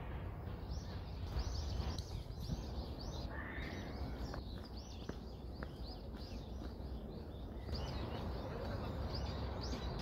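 Small birds chirping over and over, with a steady low rumble underneath and a few short clicks around the middle.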